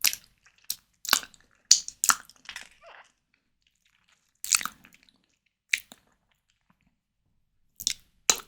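Close-miked chewing of white tiger prawn: short wet clicks and smacks of the mouth. They come in a quick cluster over the first three seconds, then a few single ones with pauses between.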